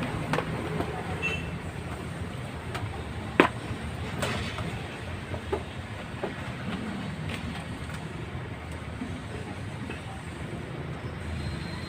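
Steady background traffic rumble with a few scattered sharp clicks and knocks, the loudest about three and a half seconds in, from small parts of an electric fan being handled and taken apart.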